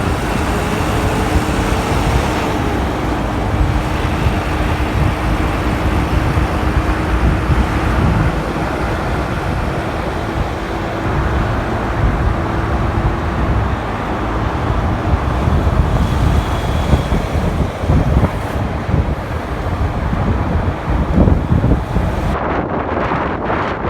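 Wind buffeting the microphone of a moving motorcycle, over the rumble of road traffic, with a steady engine hum for about the first half.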